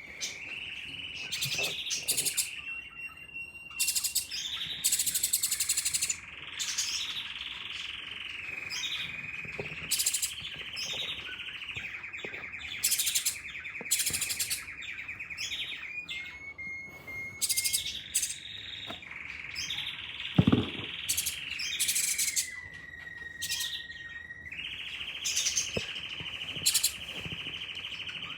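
Birds calling without a break: a continuous high call that wavers up and down in pitch, with many short, sharp chirps over it. A single thump about two-thirds of the way through.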